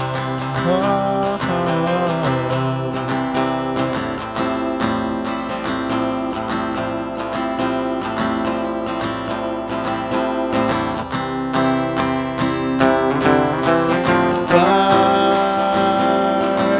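Instrumental passage of a song: strummed acoustic guitar with a melodic lead line that glides in near the start and again near the end.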